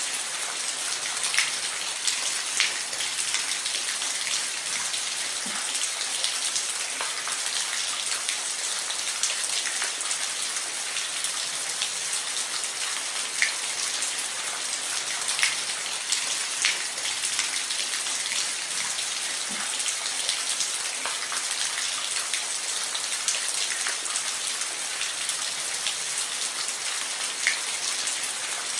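Steady rain falling on a roof: an even hiss with scattered sharper drop impacts every second or so.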